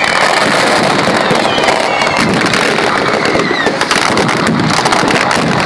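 Fireworks and firecrackers going off in a loud, continuous barrage of rapid crackling bangs, with a few falling whistles.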